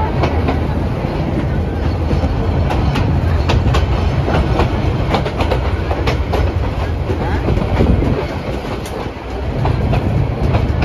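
Passenger train running along the track, heard from a carriage window: a steady low rumble with wheels clacking irregularly over the rail joints.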